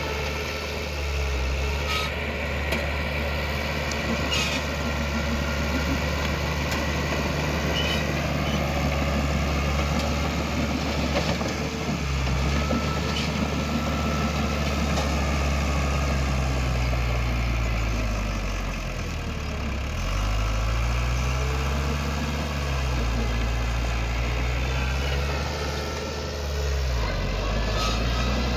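Heavy diesel earthmoving machine engine running, its pitch dipping and rising several times as throttle and load change, with a few metallic clanks in the first few seconds.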